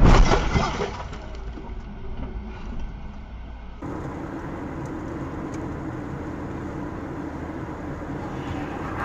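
A loud crash-like impact dies away in the first second. After a cut about four seconds in, a moving vehicle's engine and tyre noise runs on steadily.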